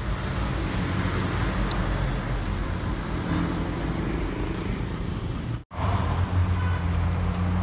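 Steady low hum of an idling car engine and street traffic, heard from inside the car. The sound drops out for a split second a little over halfway through, then the hum carries on.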